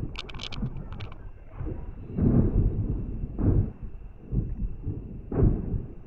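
Aerial firework shells bursting: a quick run of sharp crackles in the first second, then a series of low booms about a second apart.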